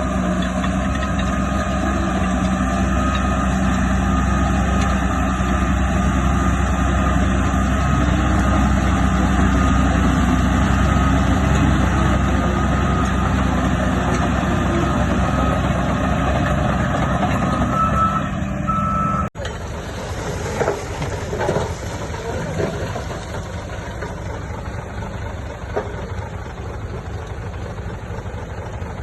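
Heavy diesel earthmoving machinery running under load with a reversing alarm beeping over the engine. About two-thirds through the sound cuts abruptly to a quieter engine running, with a few metal knocks.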